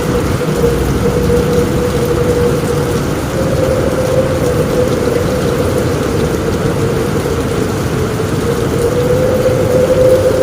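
Steady rain on a roof with a low rumble underneath and a faint, slightly wavering whistle-like tone that holds on throughout.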